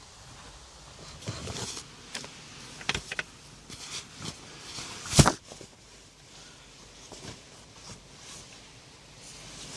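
A few scattered light knocks and clicks, with one sharp knock about five seconds in, the loudest of them.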